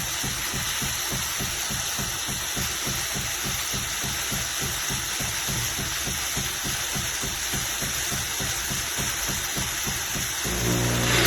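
Philips 3300 fully automatic espresso machine making a drink, its pump running with a rapid, even pulsing. A little before the end the pulsing gives way to a steadier low hum.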